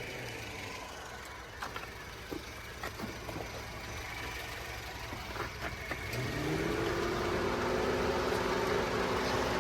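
Car engine idling with a few light clicks; about six seconds in the engine speed rises and then holds steady at a higher pitch, a little louder.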